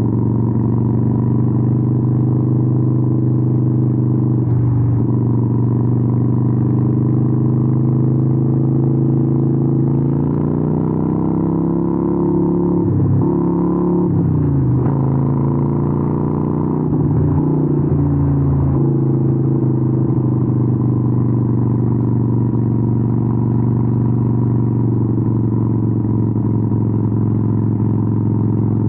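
Harley-Davidson 883N Sportster's V-twin running through Vance & Hines exhausts at a steady cruise. About ten seconds in the revs climb, then dip sharply a few times (gear changes) before settling back to a steady run near the end.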